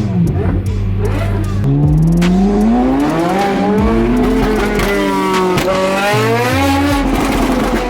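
Supercar engines accelerating, their pitch climbing and dropping again several times as they rev through the gears.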